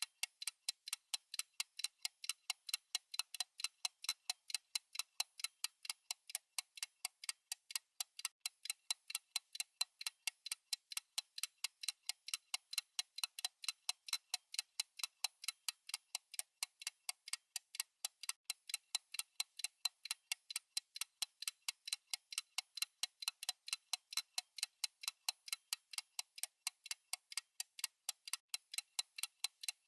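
Fast, perfectly even clock-style ticking from a countdown timer's tick sound effect: sharp, bright clicks at a steady level.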